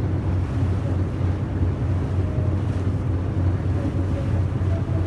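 Steady low drone of a yakatabune houseboat's engine under way, with wind on the microphone and water noise over it.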